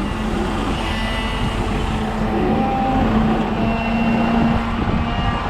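Heavy diesel trucks running under load during a mud recovery, a loaded tractor-trailer being pulled out by a wrecker, with a steady low hum that strengthens about two seconds in and eases near the end.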